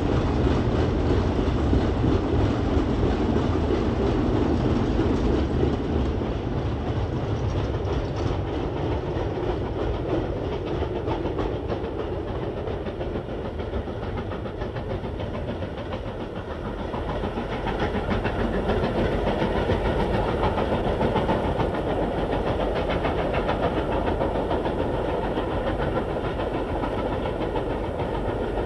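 Continuous rumble and clatter of a train running on rails, steady throughout with a slight change in tone about two-thirds of the way through.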